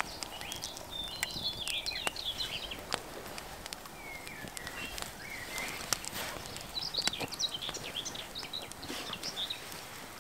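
Small songbirds singing in short bursts of chirps, with scattered sharp clicks and crackles throughout.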